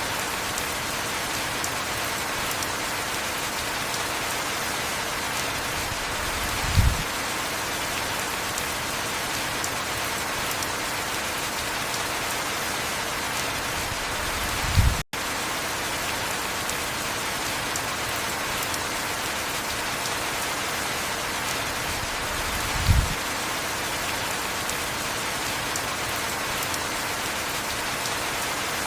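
Heavy rain falling steadily, an even hiss. Brief low thumps come about every eight seconds, and the sound cuts out for an instant about halfway through.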